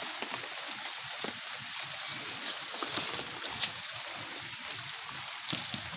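Steady rain falling, a constant hiss with a few sharp drop-like taps, the clearest about three and a half seconds in.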